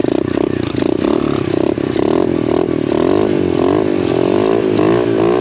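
SSR 125 pit bike's single-cylinder four-stroke engine running in neutral while warming up, its revs rising and falling in repeated small blips.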